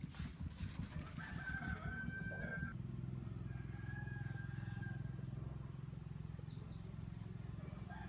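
A rooster crows about a second in and again more faintly around four seconds. Under the crowing runs a steady low motor drone.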